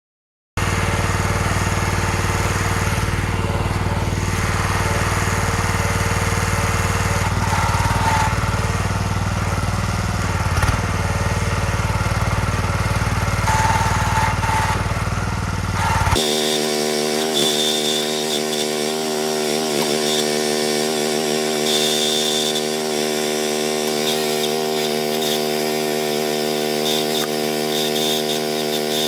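Towed backhoe's small gas engine running steadily and loudly. About halfway through the sound cuts abruptly to a higher, more tonal engine note whose pitch wavers for a few seconds.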